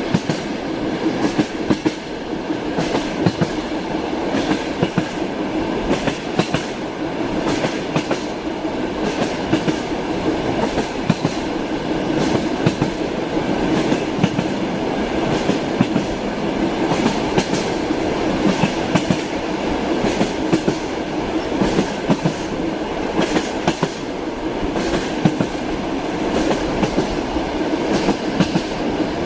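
Passenger train running along the rails: a steady rumble of the wheels with frequent sharp clacks as they pass over the rail joints, heard from inside the carriage.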